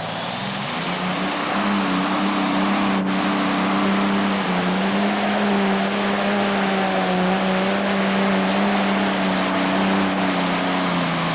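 Modified pulling tractor's engine running hard at high revs. Its pitch climbs over the first second or two and then holds steady under heavy load, with loud, dense engine noise.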